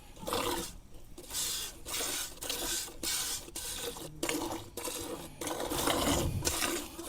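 A cow being milked by hand into a metal pail: jets of milk squirt into the pail in a steady rhythm, about two strokes a second.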